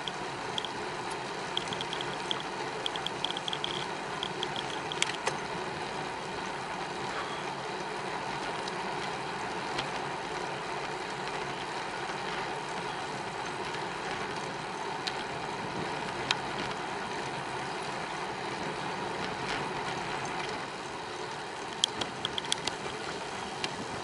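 Steady wind and tyre rolling noise from a bicycle being ridden, with short runs of rapid ticking from the freewheel while coasting, in the first few seconds and again near the end.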